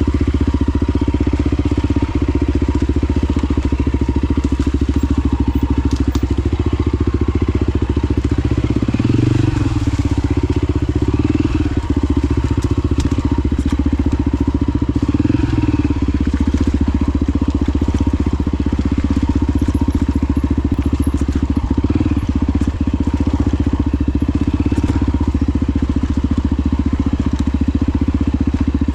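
Honda XR250 Baja's single-cylinder four-stroke engine running at a steady riding speed, with small rises and dips in revs.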